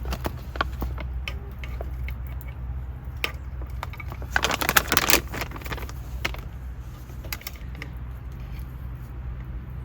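Scattered light clicks and taps, with a brief rustling crackle about halfway through, over a steady low hum.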